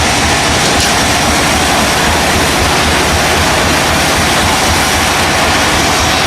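Sawmill machinery running steadily and loudly: a dense, even noise over a low hum, with no pauses.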